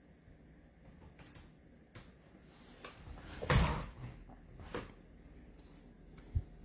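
Handling noises at a table: a few light clicks and knocks, a short scraping rustle about three and a half seconds in, another smaller one a second later, and a dull thump near the end.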